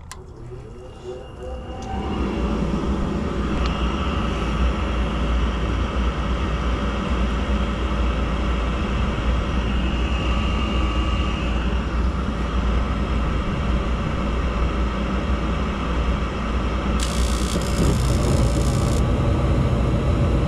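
Gas furnace starting up: a motor spins up with a rising whine about two seconds in, then the furnace runs with a steady rushing rumble, a little louder near the end.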